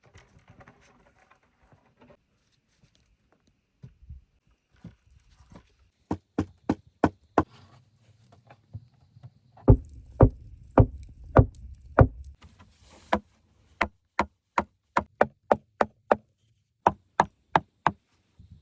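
Repeated sharp knocks of a tool striking wood, in runs of about two or three blows a second. The loudest run, from about ten seconds in, has a dull thud under each blow.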